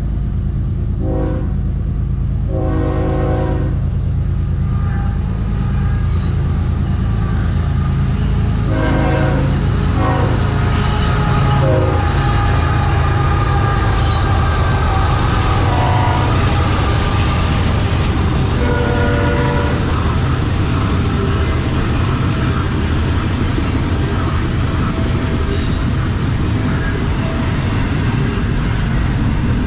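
CSX freight diesel locomotives sounding their air horn in a series of blasts, a long one about three seconds in and more around ten and twenty seconds, over a low engine rumble as they approach and pass. After that comes the steady rolling noise and clatter of double-stack intermodal container cars going by.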